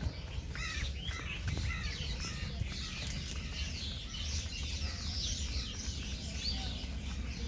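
Many birds chirping over one another, short high calls packed close together, over a low steady rumble.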